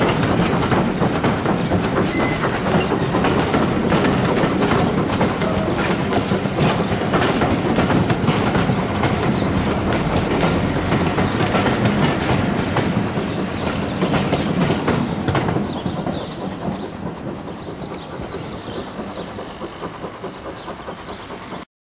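Railway passenger coaches rolling past over points and rail joints, their wheels clattering steadily. The clatter eases off about two-thirds through as the last coach goes by, and the sound cuts off abruptly near the end.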